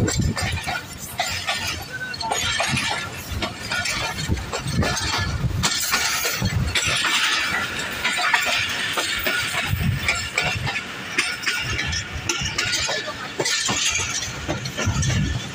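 Passenger train running at speed, heard from an open carriage door: a continuous rattling clatter of wheels on the track with irregular low thumps.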